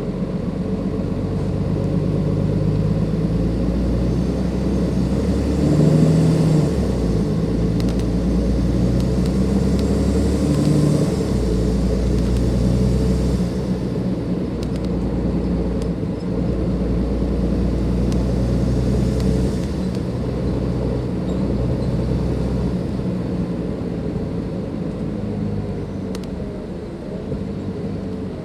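Cummins ISLe diesel engine of a Dennis Enviro 500 double-decker bus running under way, its note rising and dropping in steps as the ZF Ecomat automatic gearbox changes gear. A turbo whistle sits over the engine, strongest from about six to thirteen seconds in.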